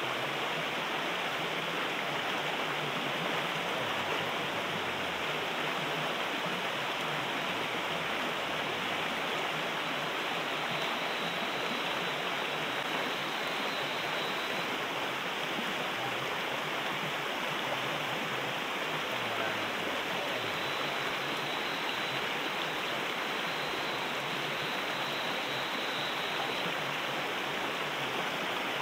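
River water rushing steadily, an even unbroken wash of sound.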